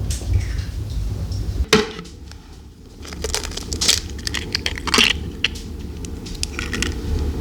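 A string of sharp knocks and clicks from objects being handled, the loudest a hard knock a little under two seconds in, over a steady low rumble.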